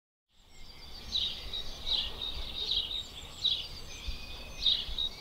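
A bird's short chirp repeating over and over, about once every three-quarters of a second, over a steady high-pitched tone and a low rumble. The sound fades in from silence just after the start.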